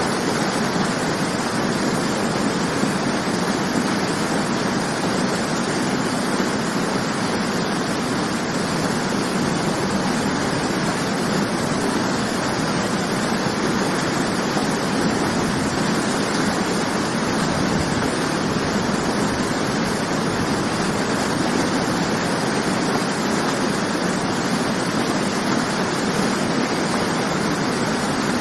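Waterfall: water falling and rushing in a steady, even roar of white noise with no change.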